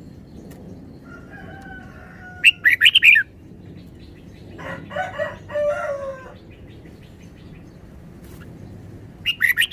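Red-whiskered bulbul singing short, quick, bubbly phrases twice, about two and a half seconds in and again near the end, with a lower-pitched call from another bird in between.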